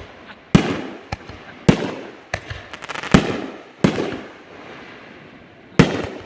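Fireworks going off in a string of sharp booms. Four loud ones fall in the first four seconds, with smaller pops between them, and another comes near the end. Each boom trails off in a fading echo.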